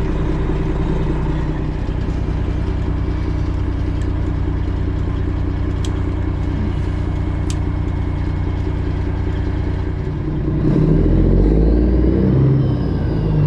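Straight-piped Detroit Diesel 12.7 in a Freightliner Classic XL semi running steadily at low revs, then revving up louder about ten seconds in, its pitch rising and falling.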